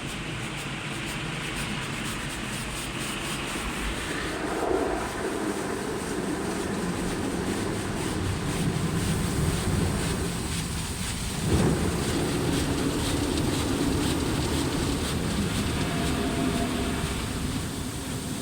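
Automatic car wash running over a car, heard from inside the cabin: a continuous muffled wash of machine and water noise that grows louder about four seconds in, with a single knock about halfway through.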